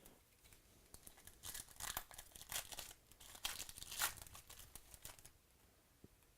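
Foil trading-card pack wrapper crinkling and tearing as it is ripped open by hand: a faint, irregular crackle from about a second in until a little past five seconds.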